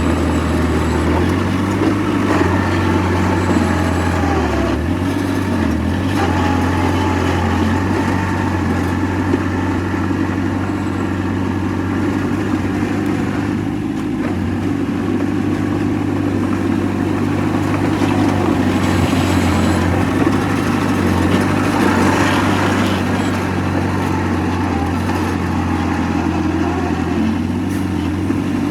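Diesel engine of heavy earthmoving machinery running steadily with a low hum.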